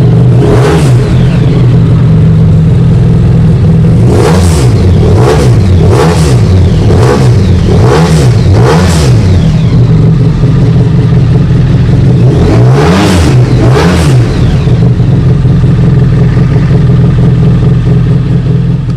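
Motorcycle engine with an aftermarket exhaust, idling and blipped repeatedly: short revs that rise and fall quickly, several in a row, before it settles back to a steady idle near the end.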